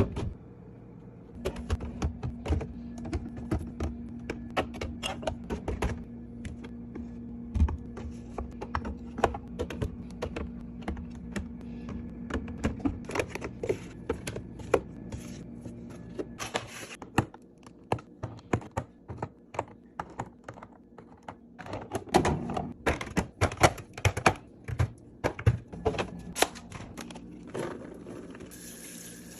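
Many quick, irregular clicks and knocks of plastic containers, bottles and packets being handled and set down on fridge shelves, with a faint steady hum under the first half.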